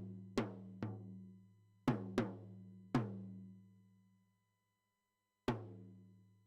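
Isolated drum hits from a recorded drum track: six strikes at an uneven pace, each ringing on with a low, pitched tone that dies away over a second or two, with a pause of about two seconds before the last hit.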